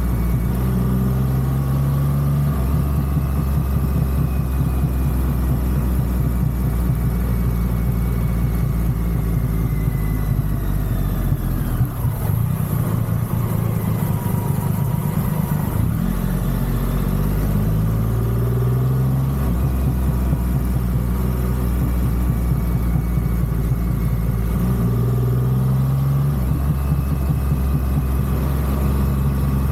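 Triumph Rocket 3 motorcycle's three-cylinder engine running under way, its note climbing and then stepping down at several gear changes, and dropping away for a few seconds around the middle, off the throttle.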